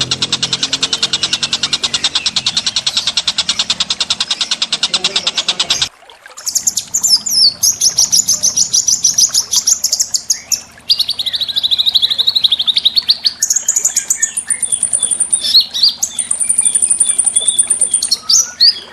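Recorded small songbirds singing: a fast, evenly repeated buzzy trill for about six seconds, then after a sudden break a different bird with high, rapid trills and runs of whistled notes.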